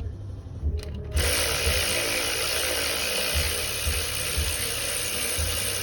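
Power tool running steadily, cutting in abruptly about a second in.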